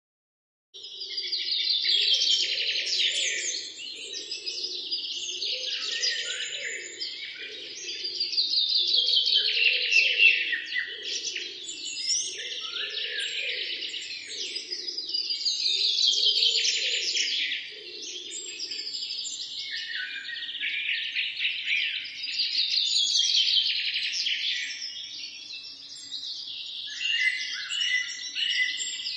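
Wild birdsong: high, trilling phrases that fall in pitch, one every few seconds, over a lower pulsing call that fades out about two-thirds of the way through.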